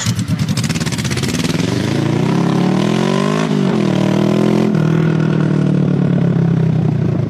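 Motorcycle engine accelerating under load: its pitch climbs for about three and a half seconds, drops sharply at a gear change, then runs at a steady speed.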